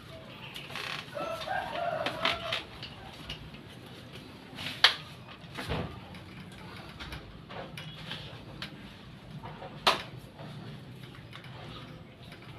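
Scattered clicks and knocks of a microphone stand holder being handled and fitted together, with two sharper knocks about five and ten seconds in.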